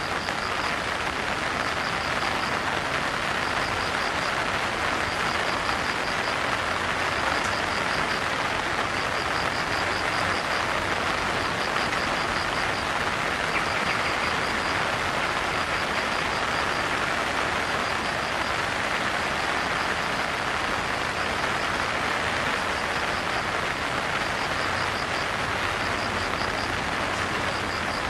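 Steady rain falling, a continuous even hiss. A high pulsing chirp recurs every second or two above it.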